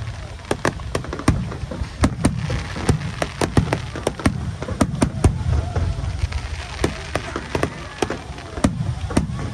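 Aerial fireworks going off: a rapid, irregular string of sharp bangs and crackles, several a second, over a low rumble.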